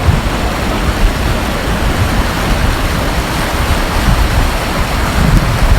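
Fast-flowing stream water rushing loudly and steadily, like water let through an opened sluice gate.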